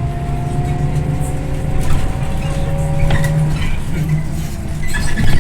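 Scania OmniLink I bus running under way, heard from inside the cabin: a steady low engine hum with a faint whine that slowly rises in pitch, and loose rattles that grow busier near the end.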